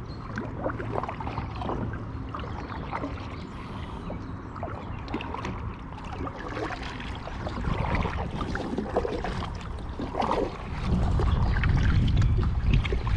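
Water splashing and lapping around a kayak, with small irregular knocks and taps. A low wind rumble on the microphone gets louder near the end.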